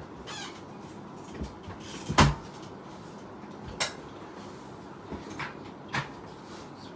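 A VCR loading a VHS cassette: a string of separate mechanical clicks and clunks, the loudest a heavy clunk about two seconds in, over a low steady hum.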